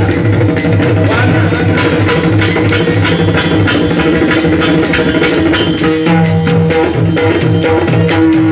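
Devotional kirtan music: drum and small hand cymbals keep a fast, steady beat under a sustained melody.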